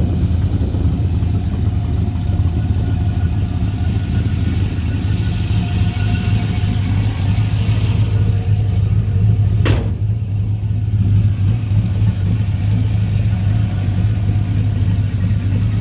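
Twin-turbo all-aluminum 5.3 LS V8 in a 1970 Chevelle idling steadily, with one sharp click about ten seconds in.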